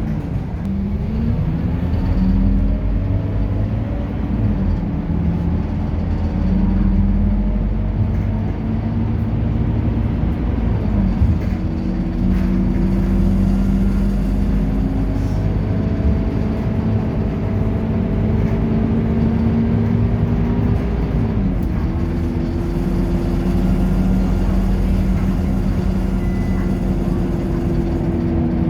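Scania K230UB city bus's five-cylinder diesel engine pulling. Its note climbs steadily and drops back sharply at each gear change, a few times over.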